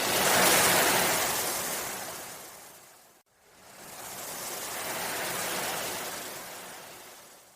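Ocean waves washing in twice: each rushes up loudly and then recedes in a long hiss.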